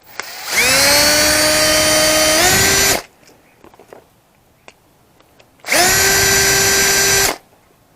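Power drill run twice: a run of about two and a half seconds whose pitch climbs as it spins up, holds steady and steps slightly higher near the end, then a shorter run a few seconds later.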